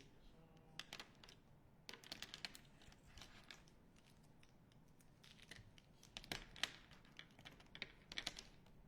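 Faint, irregular light clicks and taps in small clusters of a few at a time, the sound of small hard objects being handled or keys pressed.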